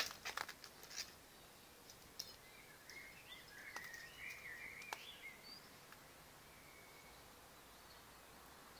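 A few faint scratches and clicks in the first second, then a bird singing a warbling, wavering phrase for about three seconds over quiet outdoor background.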